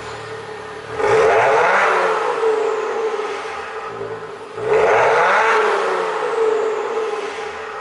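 Maserati Ghibli engine revved twice through an aftermarket TechTec valved exhaust: each rev rises sharply, then the exhaust note slowly falls back toward idle.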